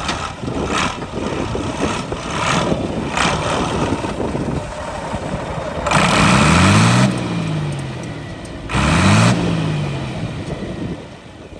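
A car engine running, then blipped twice with the throttle, a little past halfway through and again about three seconds later. Each rev climbs and falls back quickly.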